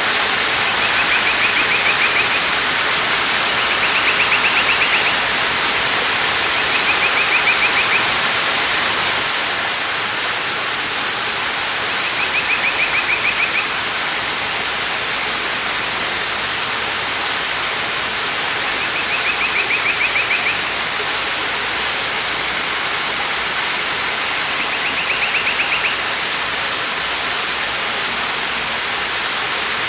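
Waterfall rushing steadily. A high, fast-pulsing trill of about a second and a half repeats six times, a few seconds apart.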